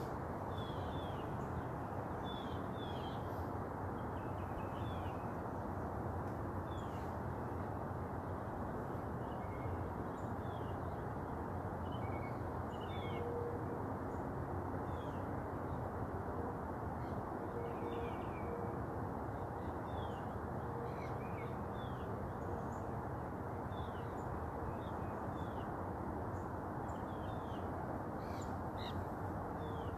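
Small birds giving short, high chirps, scattered irregularly and sometimes several in quick succession, over a steady low rushing background noise.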